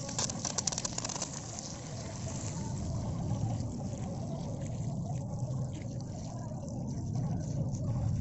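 Huina 1550 RC excavator's small electric motors humming steadily as the bucket works in wet mud and water, with a burst of crackling, splashing clicks in the first second or so.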